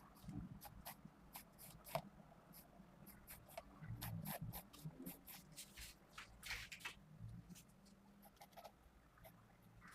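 Faint strokes of a Pentel GraphGear 500 mechanical pencil (0.5 mm, 2B lead) sketching on paper: many short, quick scratches, with one longer stroke about six and a half seconds in.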